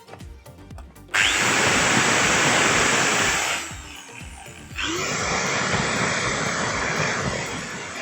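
Bosch GWS 600 angle grinder switched on about a second in and running steadily, then switched off and spinning down about three and a half seconds in, and started again near five seconds: a test run of the grinder after its coil repair.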